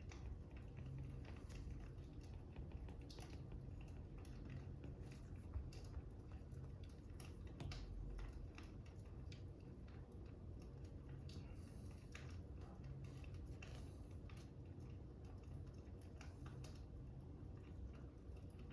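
Fire crackling: irregular small pops and ticks over a low steady rumble.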